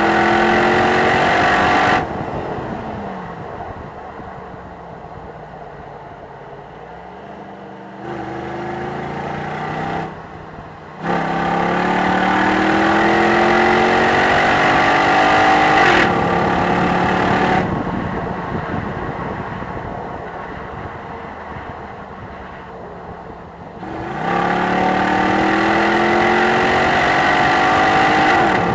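Jeep Grand Cherokee SRT8's 6.1-litre Hemi V8 pulling hard in bursts. The engine note climbs under throttle, then falls away each time it lifts off. There is a brief break for an upshift about ten seconds in, and it climbs again near the end.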